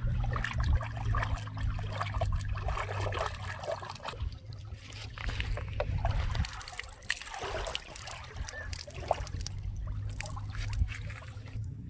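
Fish fillets being rinsed by hand in lake water: irregular trickling and splashing, over a low steady rumble.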